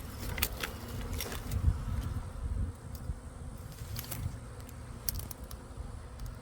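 A honeybee swarm in flight, buzzing steadily. A low rumble sits under it, with a few sharp clicks.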